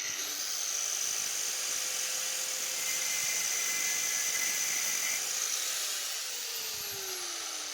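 Angle grinder running with a steady high whine, then switched off about six seconds in, its pitch falling as the disc spins down.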